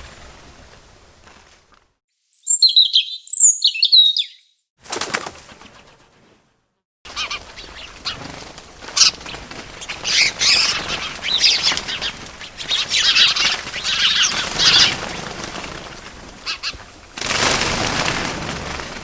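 Small birds' quick chirps, then a long stretch of fluttering wings mixed with twittering, with a louder rush of wingbeat noise near the end.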